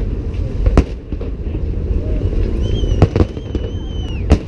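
Fireworks salute going off: four sharp bangs, two of them close together, over a steady low rumble. About halfway through, a high whistle is held for a second and a half.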